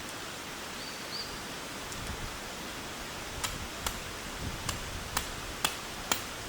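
Steady hiss of rain and wind in a forest. About halfway through, a series of sharp knocks starts, roughly two a second.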